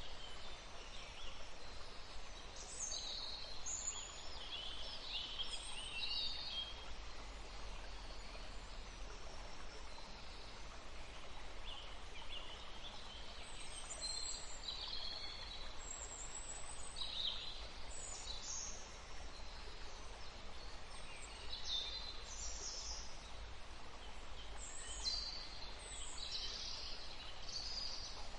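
Several birds chirping and singing in short, high-pitched calls and trills that come and go throughout, over a steady low rumble and faint hiss of outdoor background noise.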